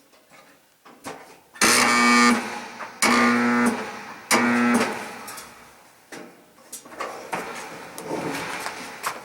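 1976 Westinghouse dryer's electric motor humming loudly in three short bursts of under a second each, switched on and off again, a mains buzz without a steady running sound: a hard start, which the owner puts down to a worn bronze motor bushing that lets the shaft tilt.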